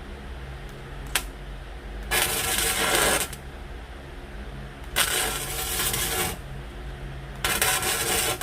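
Arc welding in three short bursts of about a second each, the crackle of tack welds joining flat steel bar pieces under a wood stove's grate opening, with a sharp click about a second in and a steady low hum underneath.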